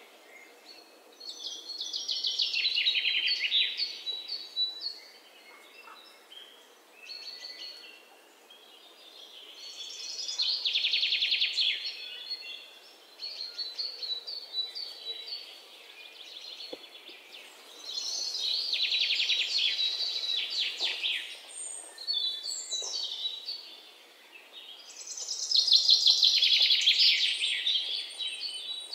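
Songbird singing: a long, fast, high trill of two to three seconds, repeated four times about every eight seconds, with short chirps and brief phrases in between.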